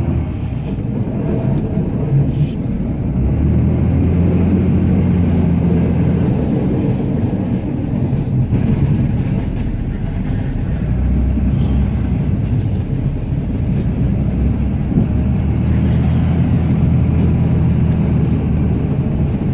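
Cummins turbo-diesel inline-six of a Ram pickup running steadily while plowing snow, heard from inside the cab, its low drone swelling and easing several times as the load changes.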